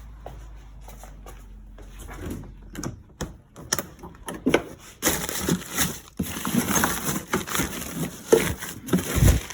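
Close-up handling noises. For the first five seconds there are scattered clicks and knocks, then a dense run of rustling and crinkling broken by sharp knocks.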